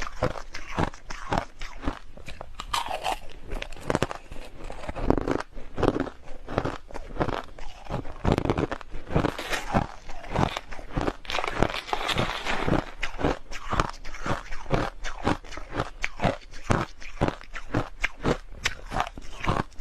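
A person biting and chewing hard crushed ice close to the microphone: a rapid, irregular run of sharp crunches, several a second.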